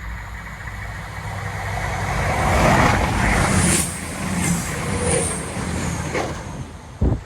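Class 170 Turbostar diesel multiple unit passing close by: engine rumble and wheel-on-rail noise build to a peak about three seconds in, with repeated high rail hits as the bogies go by, then ease off. A short thump just before the end.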